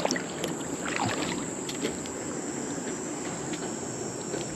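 Steady rush of river water with a high, steady insect trill over it, and a few light clicks about a second in.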